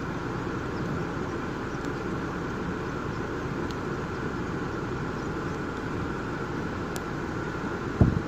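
Steady low rumbling noise, like a running vehicle heard from inside, with a single thump near the end.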